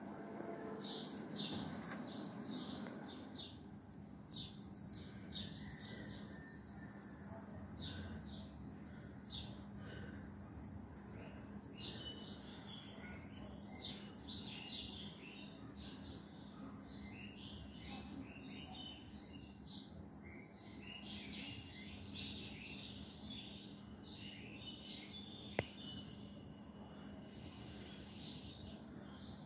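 Small birds chirping over and over in the background: many short, high chirps. Under them runs a faint steady hum, and there is a single sharp click near the end.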